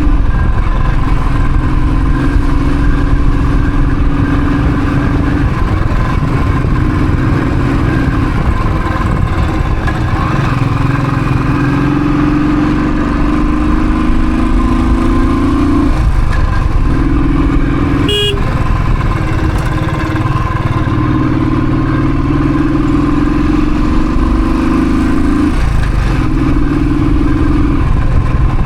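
Royal Enfield Thunderbird's single-cylinder engine running on the move, its pitch climbing and falling back several times as the bike accelerates and shifts gear, over a steady rush of wind and road noise. A single sharp click sounds about two-thirds of the way through.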